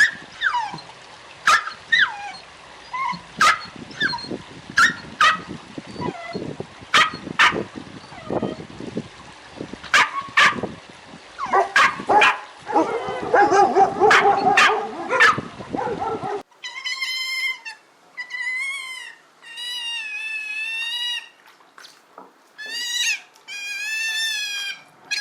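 Dog yipping in many short, sharp yelps; about two-thirds of the way through the sound changes abruptly to a series of high, wavering whines, several in a row with short gaps between.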